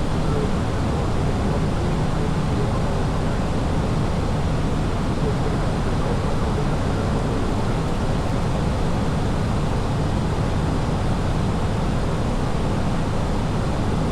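Steady, even rushing noise of a jet airliner's engines and airflow, deepest in the low end and unchanging in level.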